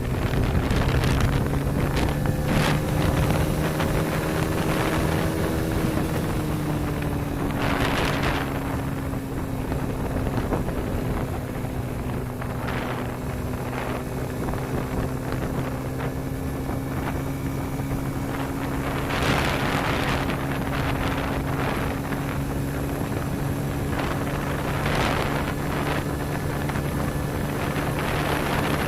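Motorcycle engine running while riding, its pitch rising for the first several seconds, then dropping a little and holding steady, with wind gusting over the microphone.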